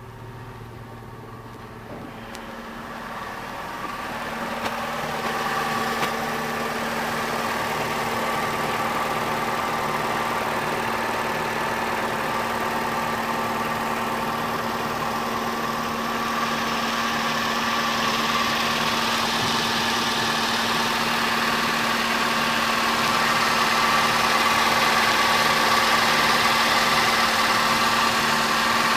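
Opel Astra Ecotec engine idling steadily, now running on a new crank position sensor. It grows louder a few seconds in, then holds steady.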